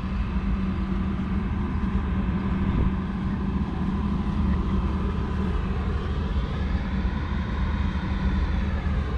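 Claas Axion 850 tractor's 6.7-litre six-cylinder diesel engine running steadily.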